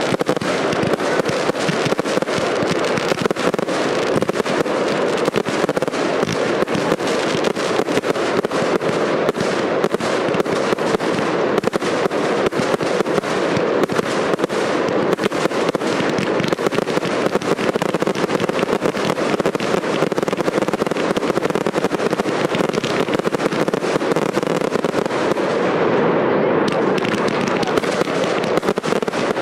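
Aerial fireworks going off in a dense, continuous barrage: rapid launches and bursts with many sharp cracks and crackles, close together and without a pause.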